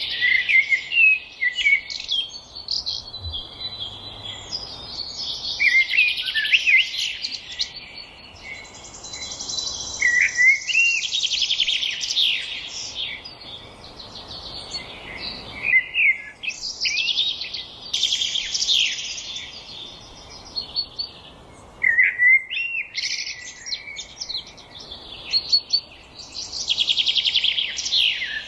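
Songbirds singing in a forest: quick chirps and fast trilled song phrases, a new phrase every few seconds.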